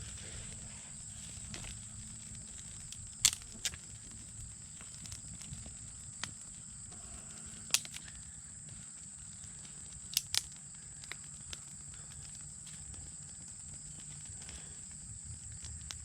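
Campfire of dead wood crackling: a few sharp, isolated pops several seconds apart over a steady low background hum.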